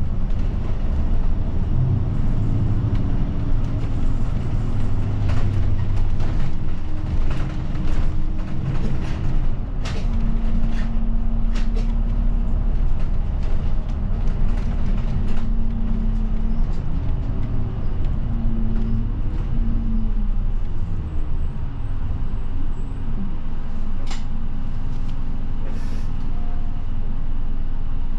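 A route bus heard from inside the passenger cabin while driving, with a steady low engine drone and road noise. The engine's pitch steps and glides up and down as it changes speed, and a few sharp rattles or clicks come and go.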